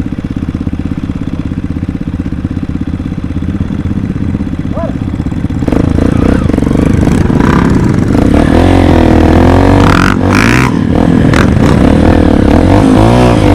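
Dirt bike engine idling with a steady beat, then from about six seconds in it gets louder and revs up and down.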